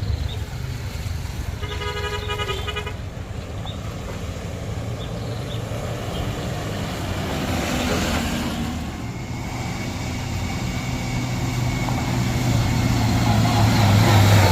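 Road traffic on a steep climb: a vehicle horn sounds once, briefly, about two seconds in, over a steady low engine rumble. A heavy vehicle's engine grows louder toward the end.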